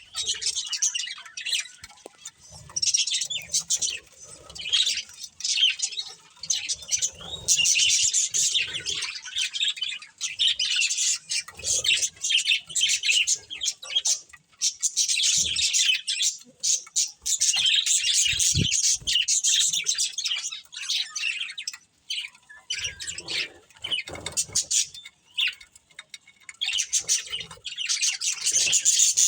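A pair of budgerigars chirping and chattering in rapid, high-pitched bouts, with short pauses between bouts.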